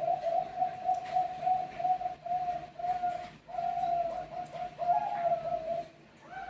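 Zebra dove (Bangkok perkutut) singing: a long, even run of short cooing notes, about three a second, that breaks off near the end as a new run begins.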